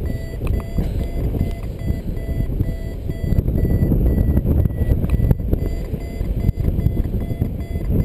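Strong wind buffeting the microphone as a steady low rumble, with a paragliding variometer's short electronic beeps repeating faintly over it.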